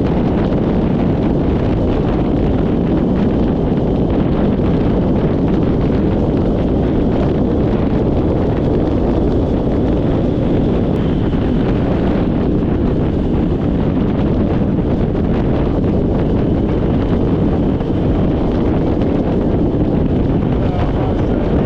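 Steady, loud wind rushing over the microphone of a camera on a moving motorcycle.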